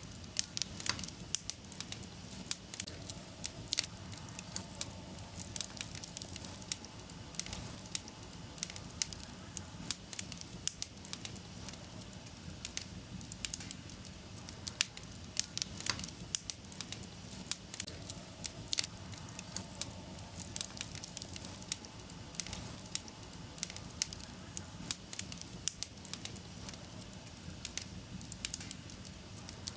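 Fireplace fire crackling: irregular sharp pops and snaps over a steady low rush of the flames.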